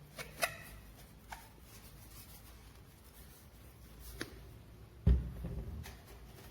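A few light clicks and knocks of objects being handled, with one heavier thump about five seconds in.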